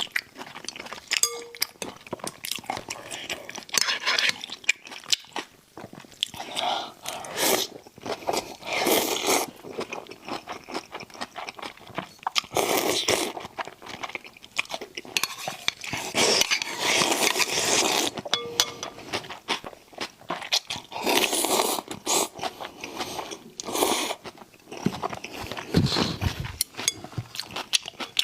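A person chewing and crunching spicy raw shrimp with noodles, heard close up: a stream of short wet crunches and clicks, broken by a few longer noisy stretches of a second or two.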